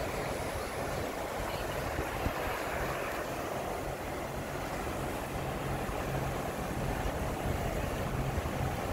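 Boat engine idling with a steady low hum under an even rushing noise of water.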